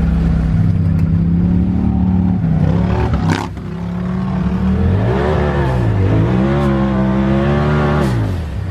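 Turbocharged side-by-side UTV engine running steadily, then revving up and down repeatedly in the second half. A single sharp knock about three and a half seconds in.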